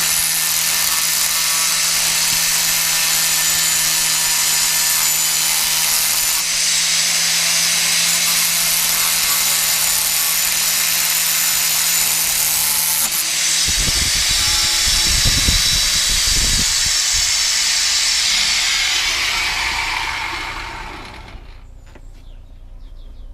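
Angle grinder with a stainless-steel cutting disc cutting through a stainless steel motorcycle header pipe, a loud steady grinding hiss. About halfway through the motor hum changes and a few low thumps are heard; near the end the grinder stops and the sound dies away.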